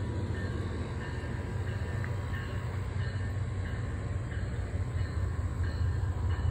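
Approaching MARC train led by an MP36 diesel locomotive, heard from a distance as a steady low rumble that grows slightly louder toward the end.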